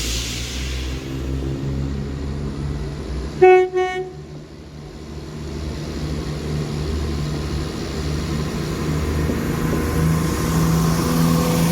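A train running with a steady low rumble, which sounds one short horn toot about three and a half seconds in. The rumble then dips and builds again toward the end.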